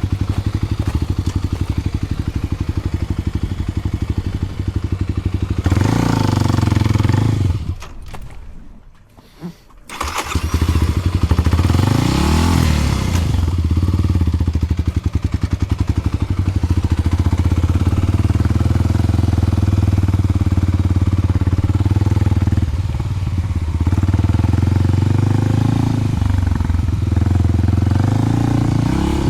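Kawasaki KLX300 single-cylinder four-stroke running through a Delkevic oval slip-on muffler. It idles steadily and is blipped up about six seconds in, then dies away for about two seconds. It restarts around ten seconds in, is revved once more, and settles back to a steady idle.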